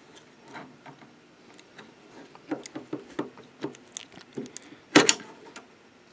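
Hands handling plastic parts of a 3D printer's display assembly: a string of light clicks and taps, with one sharp, loud click about five seconds in.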